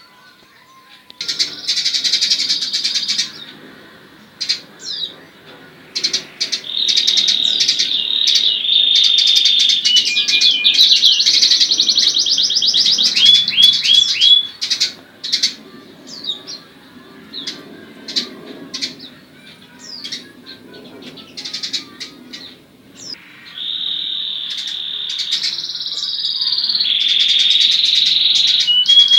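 A domestic canary singing long, rapid rolling trills and held notes, mixed with short sparrow chirps. The song comes in two long stretches, with quieter spells of scattered chirps between.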